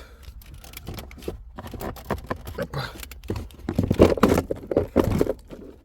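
Hands opening a cover and taking out a part inside a car: irregular clicks, knocks and scraping of plastic and metal parts being handled. The noises are busiest about four to five seconds in.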